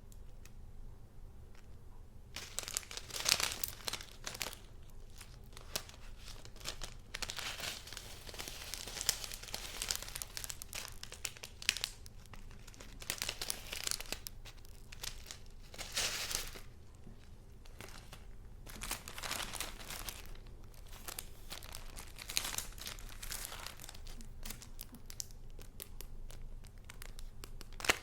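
Paper crinkling and rustling in irregular bursts as sheets and paper goods are handled, starting about two seconds in.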